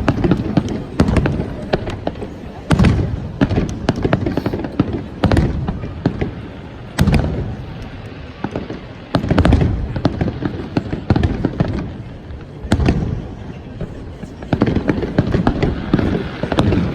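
Fireworks display: aerial shells burst in loud bangs every two to three seconds, with crackling and rumbling between the bursts.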